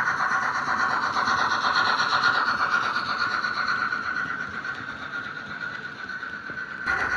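Märklin H0 model steam locomotive (BR 24) running along the track with its coaches: a steady motor whine over the rolling rattle of wheels on rails. It grows quieter through the middle and comes back louder suddenly near the end.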